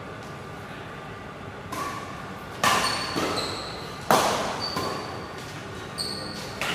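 Badminton rally: rackets strike the shuttlecock in a string of sharp hits, the two loudest about a second and a half apart, with short high squeaks between them.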